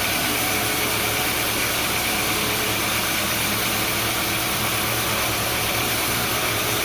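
Sawmill machinery running steadily: a constant engine-like hum under an even hiss, with no cut or impact standing out.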